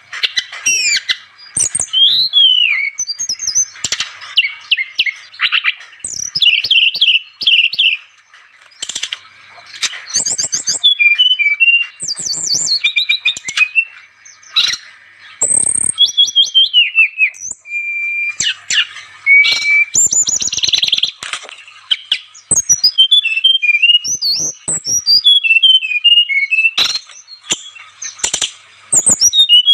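Sikatan rimba dada coklat (SRDC, a jungle flycatcher) singing continuously: rapid, varied phrases of high whistles, trills and chirps with brief pauses between them.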